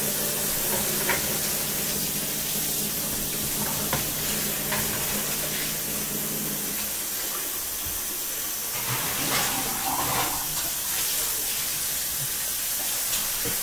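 Food sizzling in a pan on the stovetop: a steady hiss, with a low hum underneath that stops about seven seconds in and a few light clicks.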